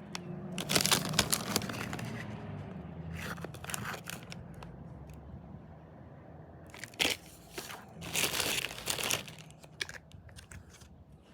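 MRE ration packets being handled and rummaged through, their plastic packaging crinkling in several short bursts, loudest about a second in and again around eight to nine seconds.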